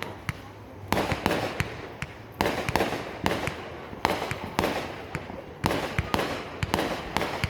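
Fireworks going off in quick succession: about ten sharp bangs at uneven intervals, each trailing off in a noisy decay before the next.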